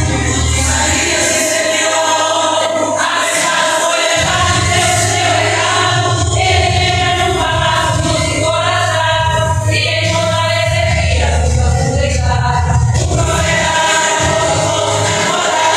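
Group of voices singing a gospel hymn with music, a strong bass line underneath.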